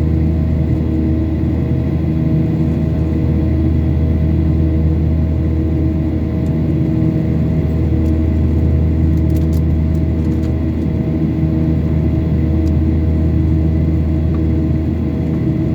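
Boeing 737-800's CFM56 jet engines in a steady, loud drone with a deep hum and a few steady tones above it, heard inside the passenger cabin during the climb after take-off.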